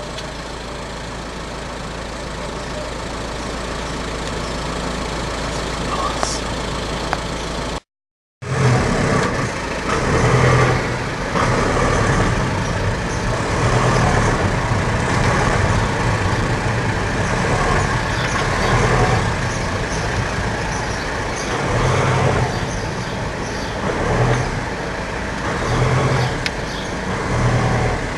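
Car driving, heard from inside the cabin: steady engine and road rumble. About eight seconds in the sound cuts out briefly, and after that the rumble rises and falls in uneven surges.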